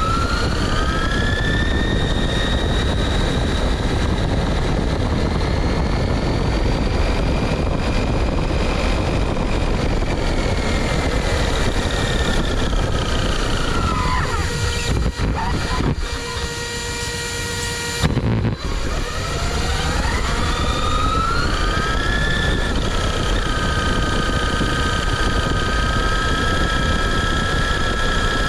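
High electric whine of an RC car's Apex 4076 2500 KV brushless motor and gears. It climbs in pitch as the car speeds up, holds, drops off about halfway through, then climbs and holds again. Under it runs a steady rushing noise.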